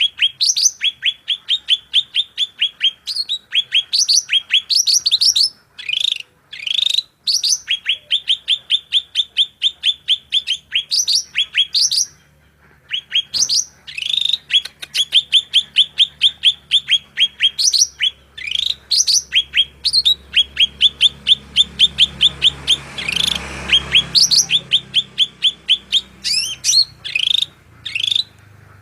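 A songbird singing loud, rapid repeated chirps, about four or five a second, in long runs broken now and then by quick rising sweeps and brief pauses.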